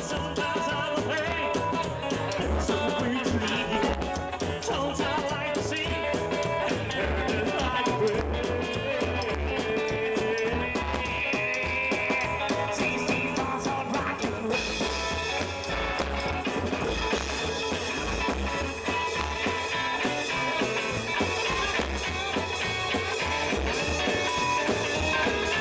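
Live rockabilly band playing with drum kit and guitar, a steady beat with no lead vocal line.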